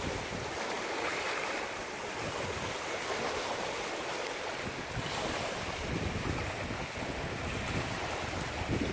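Storm noise: a steady hiss of rain and wind, with gusts buffeting the microphone in low rumbles.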